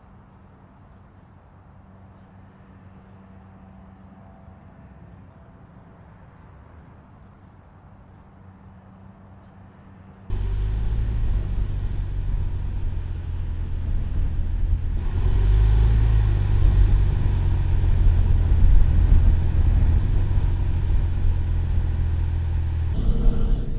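Porsche 911 Carrera GTS T-Hybrid boxer engine, a turbocharged flat-six. At first it is heard faintly as a steady low hum. About ten seconds in it cuts sharply to the engine running loud under load with a deep rumble, which grows fuller a few seconds later.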